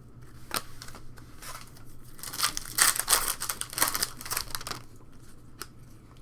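Foil wrapper of a trading-card pack crinkling and tearing as it is opened, a dense rustle in the middle with a few light clicks and rustles of card handling before and after.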